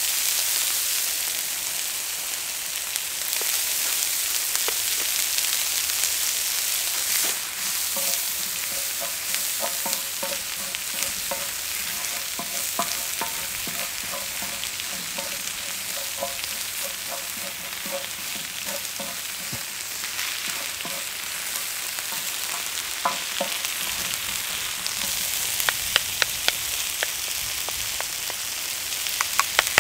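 Green onions and red chili flakes sizzling in oil on a cast-iron pot-lid griddle, stirred and pushed around with two wooden spatulas. A steady hiss with scraping, and a run of sharp clicks near the end.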